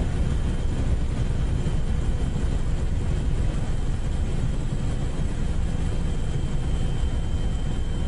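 Steady low rumble of an aircraft, heard from on board, with a faint steady high whine above it.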